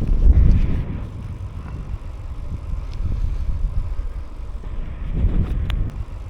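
Wind buffeting a bike-mounted microphone while riding, a rough low rumble that swells and eases, with a sharp click about 5.7 seconds in.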